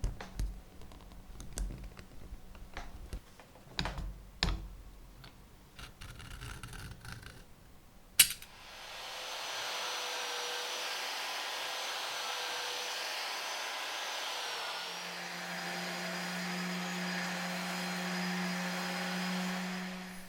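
Small parts being handled, with scattered clicks and knocks. About eight seconds in a switch clicks, and a small electric power tool starts and runs steadily, a hiss with a faint whine, until it stops just before the end.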